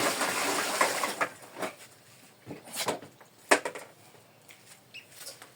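Household pots and dishes being handled: a loud rushing noise for about a second and a half, then several separate knocks and clatters, the loudest about three and a half seconds in.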